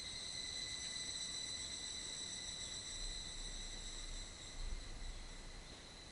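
Insects trilling steadily at a high pitch, with a low rumble between about three and five seconds in.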